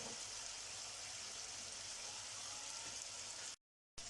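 Seafood and vegetables sizzling steadily in a hot paella pan, a soft even frying hiss that cuts out for a moment near the end.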